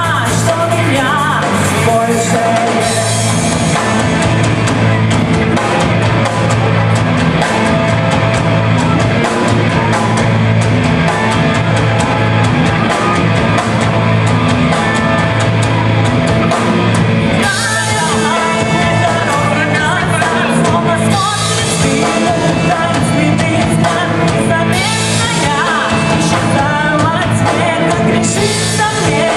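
Live rock-metal band playing loudly: drum kit and amplified instruments, with a singer's voice over them.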